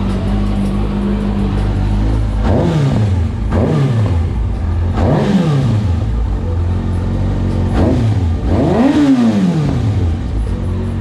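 Kawasaki Ninja ZX6R inline-four engine idling, then blipped several times with the throttle, each rev rising and falling back to idle, the last one the highest.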